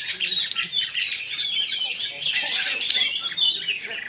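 Several oriental magpie-robins singing at once: a dense, unbroken chorus of overlapping chirps and whistles.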